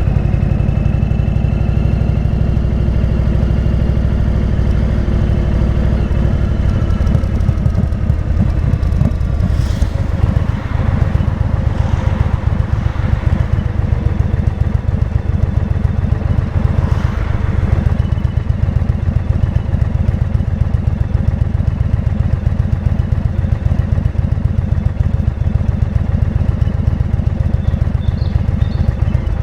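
Indian motorcycle's V-twin engine running steadily under way, a deep low rumble whose pitch slides gently in the first few seconds, with two brief whooshes of rushing air about ten and seventeen seconds in.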